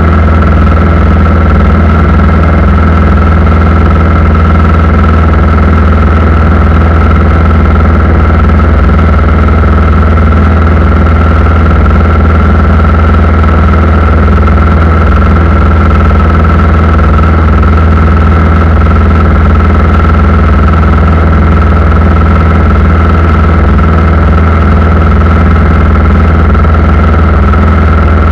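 Aircraft engines running steadily: a loud, even drone with a constant high whine above it and no change in pitch.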